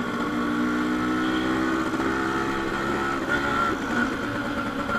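Yamaha RX100's two-stroke single-cylinder engine running through a cut muffler at a fairly steady speed while being ridden.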